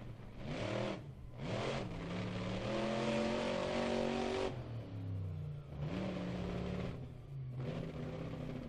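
Monster truck engine revving in several bursts of throttle, its pitch climbing and falling; the longest burst lasts about three seconds.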